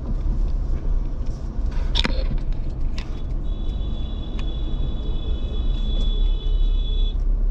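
Engine and road rumble heard from inside a Mahindra Scorpio SUV as it creeps through stalled truck traffic. There is a sharp knock about two seconds in, and a steady high-pitched tone sounds from about three and a half seconds until shortly before the end.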